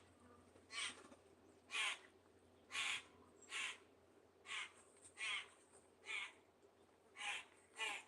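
A bird giving a harsh, raspy, caw-like call over and over, nine times, roughly one call every second.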